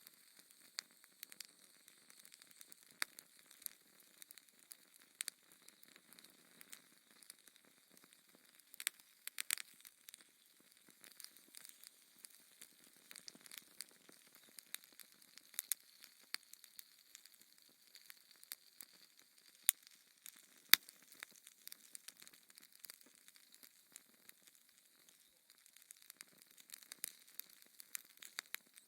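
Wood fire crackling in a fireplace: irregular sharp pops and snaps over a faint hiss, with a louder pop about 21 seconds in.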